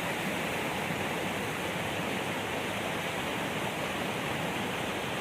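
Rushing water of a creek waterfall: a steady, unbroken roar of falling water.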